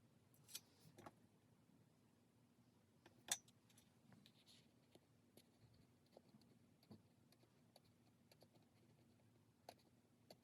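Faint small clicks, taps and rustles of stationery handled on a desk, with one sharper click about three seconds in.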